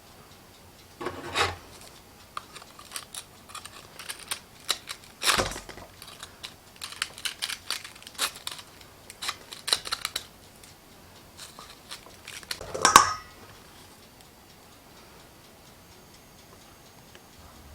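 Close kitchen handling sounds: a run of short clicks, knocks and scrapes, with a louder scraping rustle about thirteen seconds in.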